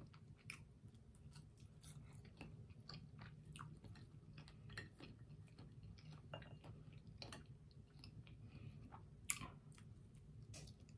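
Faint close-up chewing of french fries: soft, irregular mouth clicks and small crunches, with one louder click about nine seconds in.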